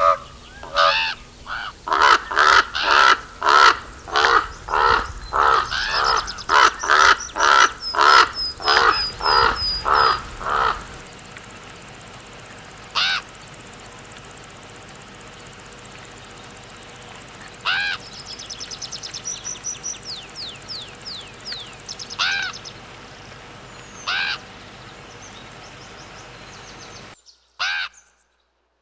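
Common raven calling: a rapid series of harsh caws, about two a second, for roughly ten seconds, then single calls every few seconds. A small bird's thin, high chirps run in quick series twice in the background, and the sound cuts out abruptly near the end.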